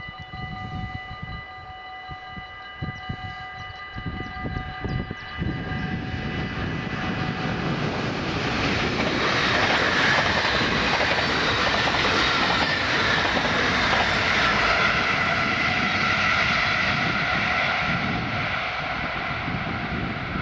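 A Dutch NS double-deck electric passenger train approaches and passes at speed; its rush of wheels and air builds from about eight seconds in and is loudest as it goes by. At first a level-crossing warning bell rings steadily in several tones, fading out after about six seconds.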